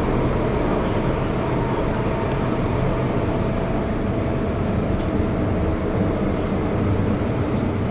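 Interior of an MTR metro train running through a tunnel: a steady rumble of wheels on rail with a thin steady whine that fades out about five seconds in.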